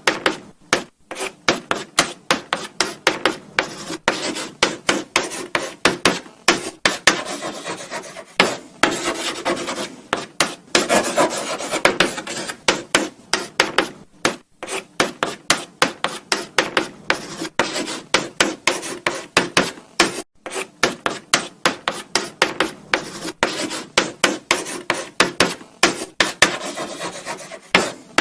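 Chalk writing on a blackboard: quick scratchy strokes in rapid succession, broken by a few brief pauses.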